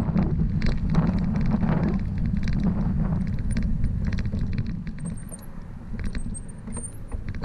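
Bicycle in motion: a heavy low wind rumble on the microphone, with the bike rattling and clicking over the road surface. It eases off a little past the middle.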